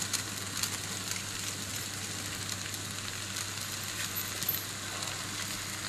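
Chowmein noodles sizzling steadily in a steel kadhai over a gas burner, with a few faint clicks of the spatula against the pan.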